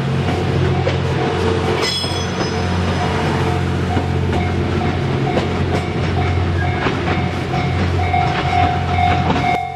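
A diesel train's engine runs steadily as it moves over the tracks, with wheel clicks over rail joints. A Japanese level-crossing alarm bell rings in a fast repeating pattern and grows louder near the end.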